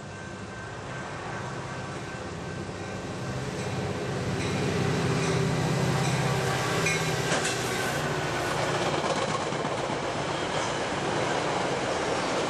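Diesel-hauled train approaching and passing. The low engine sound builds over the first few seconds, then gives way to a steady loud rolling of wheels on rail with clicks over the rail joints.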